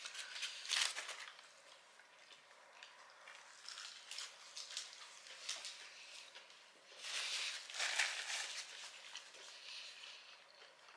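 Close-miked chewing of a bite of sourdough burger: soft, wet mouth sounds that come in clusters, loudest about seven to eight and a half seconds in.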